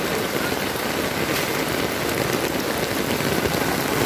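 Heavy rain falling steadily onto puddled paving, an even hiss of drops splashing on standing water.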